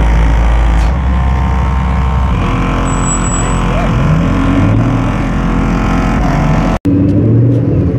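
Ford GT's supercharged V8 running at low speed as the car pulls away, with a couple of short rising revs.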